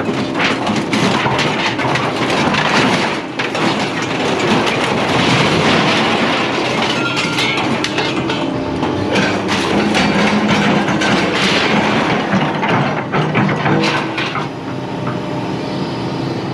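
Scrap metal clattering and banging in a dense run of impacts, over a steady low hum.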